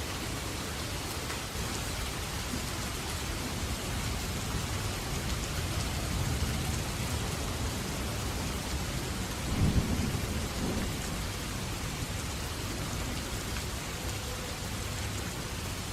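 Steady rain falling, with thunder: a low rumble swells, then a sharp thunderclap a little past halfway rolls on for about a second.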